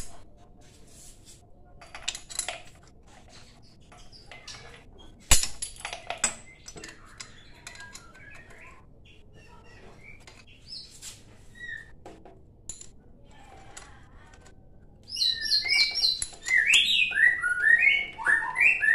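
Scattered small metallic clicks and knocks of hand work on a motorcycle cylinder block, with one sharp knock about five seconds in. Near the end a songbird chirps in quick runs of falling notes.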